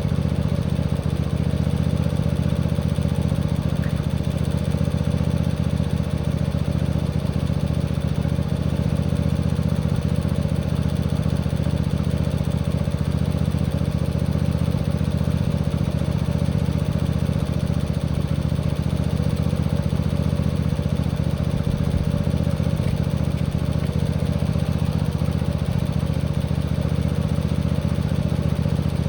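Tractor engine running steadily at full throttle, held wide open without change in pitch.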